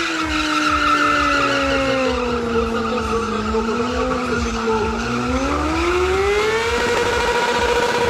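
Stunt motorcycle's engine held at high revs: its pitch sags a little, climbs from about five seconds in, then holds steady at a higher note near the end.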